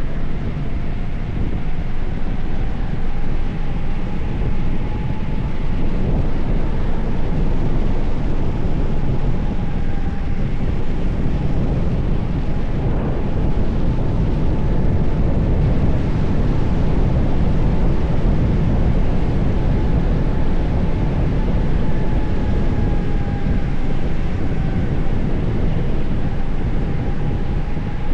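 Wind rushing over the microphone of a bicycle rider, a loud steady rumble with a faint wavering whine throughout.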